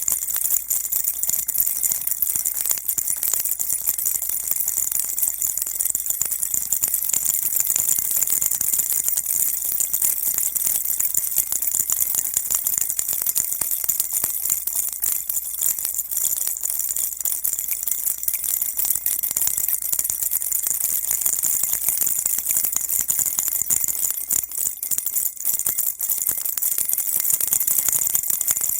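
A baby rattle shaken without pause, a steady high jingling rattle of many small beads or bells, played to calm a baby.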